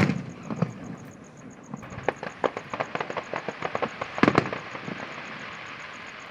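Fireworks going off: one loud bang at the start, then a rapid crackling of many small sharp reports from about two seconds in, with a louder cluster of bangs just past four seconds, fading to a hiss.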